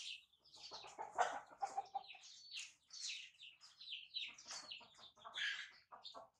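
Birds chirping and clucking: many short high calls throughout, with a lower run of clucks between about one and two seconds in.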